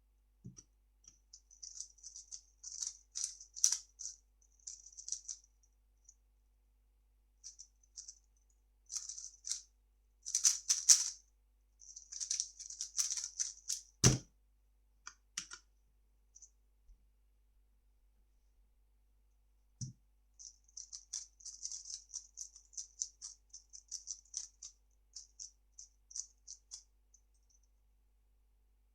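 A 3x3 speed cube being turned fast: dense runs of quick plastic clicks from the layer turns, broken by short pauses. A single dull thump falls about halfway through. A lighter knock comes some six seconds later, and then another long run of turning clicks.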